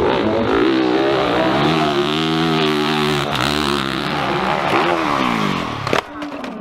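Dirt bike engine revving hard: the pitch climbs over the first couple of seconds, holds, then falls away, and the sound cuts off abruptly about six seconds in.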